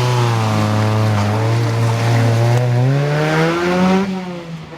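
Historic rally car's engine at high revs, its pitch climbing for a couple of seconds and then dropping off sharply near the end.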